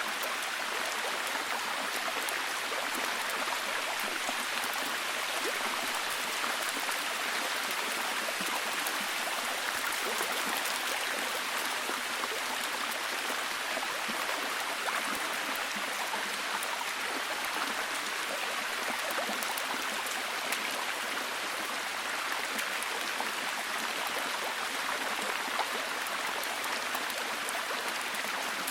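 Steady heavy rain falling, a dense even hiss with fine drop patter.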